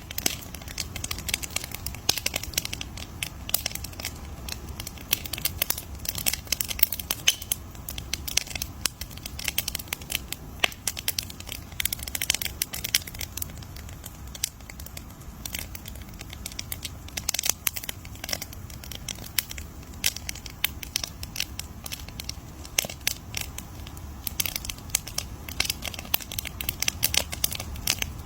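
Wood campfire crackling, with dense irregular pops and snaps over a low steady rumble of the flames.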